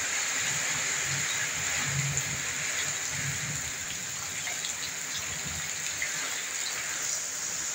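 Heavy rain falling steadily in a strong-wind downpour.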